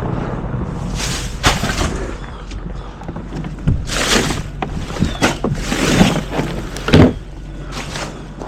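Garbage truck at work: a low engine rumble under a series of loud clanks and hissing bursts several seconds apart, the loudest near the end.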